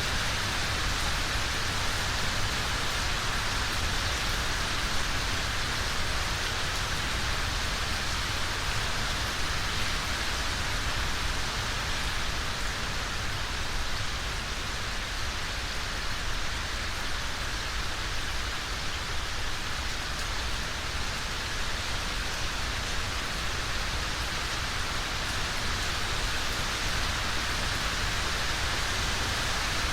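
Steady rain falling, an even hiss with a low rumble underneath and no distinct drops or thunder.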